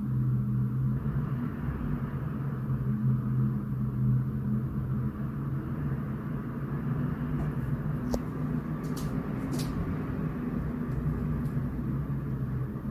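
Strong sandstorm wind rumbling steadily, with a few faint ticks between about eight and eleven seconds in.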